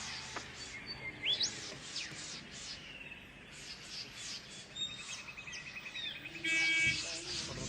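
Several forest birds calling together: rapid, repeated high chirps throughout, a couple of rising whistles about a second in, and a short buzzy trill and a loud pitched call near the end.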